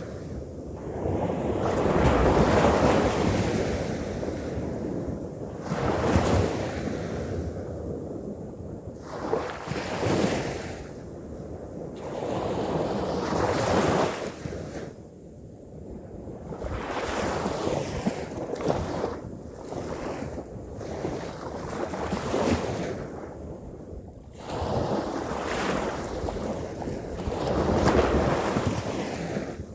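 Ocean surf breaking on a beach, each wave swelling and washing out again about every four seconds, with wind buffeting the microphone.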